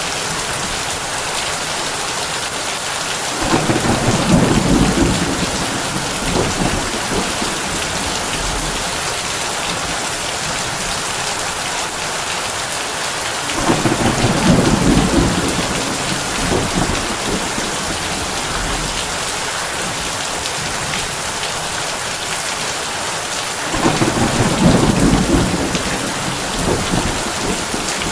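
Heavy rain drumming on a tin roof, a steady dense hiss, with thunder rumbling three times, about ten seconds apart, each rumble lasting two to three seconds.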